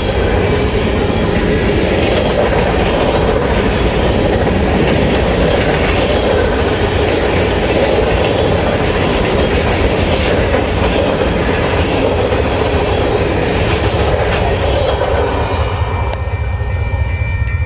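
Freight cars of a long mixed freight train rolling past: a steady rush of wheels on rail with clickety-clack over the joints and some light wheel squeal. Near the end the rush thins and a steady pitched tone comes in.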